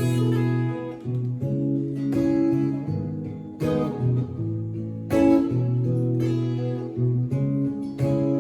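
Acoustic guitar strumming chords, each chord struck and left to ring before the next, about once a second.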